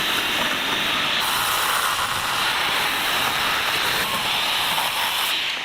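Circular saw cutting through a wooden plank, a steady loud hissing cut that stops abruptly near the end.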